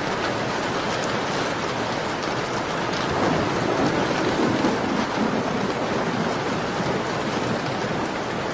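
Steady rain pattering on a window pane, with a deeper swell in the sound about three seconds in that lasts around two seconds.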